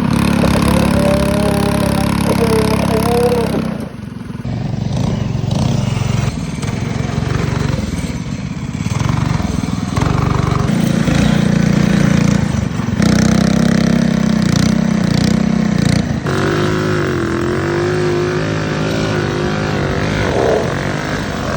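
Small mini bike engines running and revving while being ridden, the pitch rising and falling with the throttle. The sound changes abruptly about four seconds in and again past the middle.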